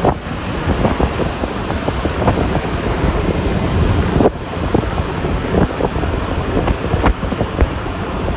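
Wind buffeting the microphone on a moving Yamaha Lexi LX 155 scooter: a dense rumble of wind and road noise that rises and falls in gusts, with a brief drop about four seconds in.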